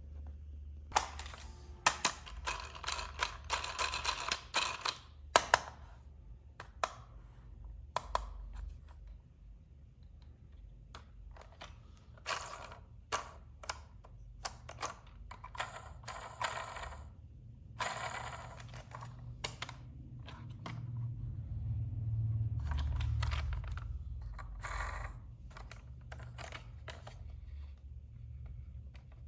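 Unboxing handling sounds: irregular clicks, taps and rustling as hands work the packaging and plastic toy parts of an RC vehicle, over a steady low hum.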